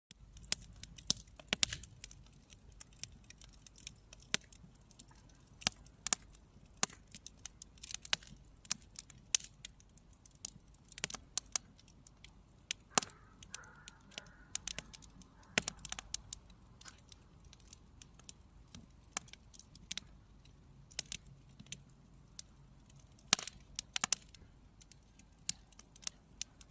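Campfire crackling: wood burning with irregular sharp pops and snaps, some much louder than others, over a low steady hiss.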